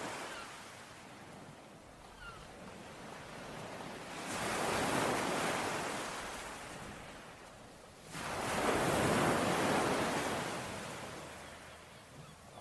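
Ocean waves surging in and washing back twice, the second wave arriving suddenly about eight seconds in, with a softer hiss of water between them.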